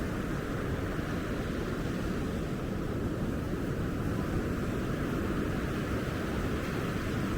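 Steady low rushing of ocean surf breaking along a beach, an even wash of noise with no distinct events.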